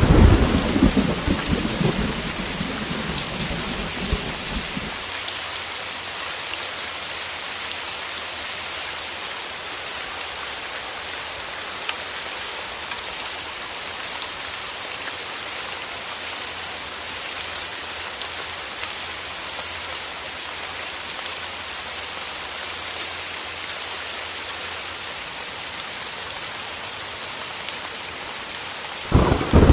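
Heavy rain falling steadily, with a low thunder rumble dying away over the first few seconds and another rumble starting near the end.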